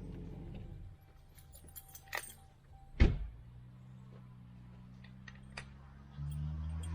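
A low, steady engine hum cuts out about a second in. A few metallic clinks and one loud knock follow, then a low engine hum starts and grows louder near the end.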